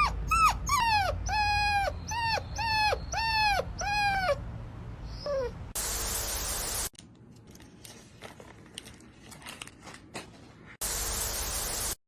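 A dog whining in a quick run of about eight short yelping whines, each arching up and then falling in pitch, then one more falling whine a second later.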